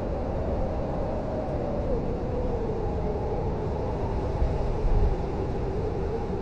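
Blizzard wind howling: a deep steady rumble under a wavering whistle that slowly rises and falls in pitch, with a stronger gust about four and a half seconds in.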